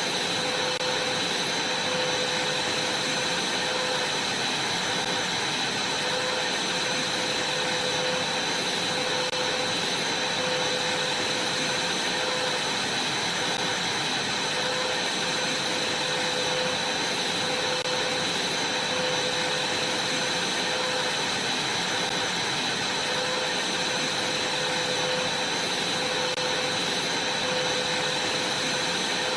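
Vacuum cleaner running steadily, with a high motor whine over its rushing air.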